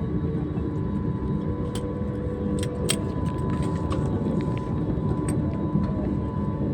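Jet airliner cabin noise heard from inside the cabin on the ground just after landing: a steady engine and airflow rumble with a faint steady whine, and a few light clicks.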